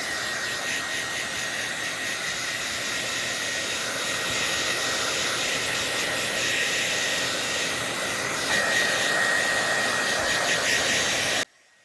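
Handheld hair dryer blowing steadily, a rushing whoosh with a faint high whine, which cuts off abruptly near the end.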